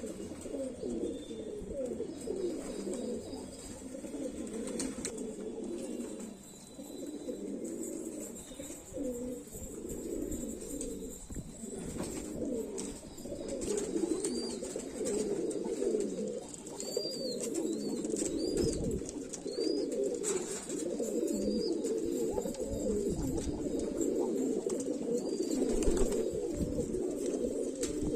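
Many domestic pigeons cooing at once, their low calls overlapping in a continuous chorus. A few short high chirps come through about halfway in.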